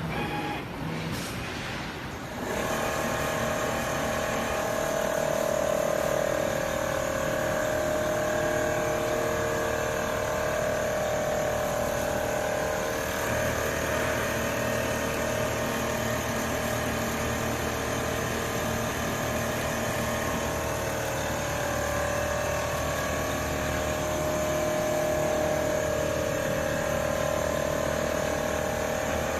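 Richpeace single-head quilting machine running: a steady mechanical hum with several held tones. It comes in about two and a half seconds in, after a few clicks.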